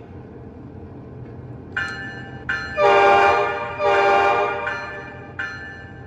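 Sampled diesel locomotive air horn from a Lionel O-gauge Legacy ES44AC model's onboard sound system: a couple of short toots about two seconds in, then two long, loud blasts, then shorter ones, over a steady low diesel engine rumble.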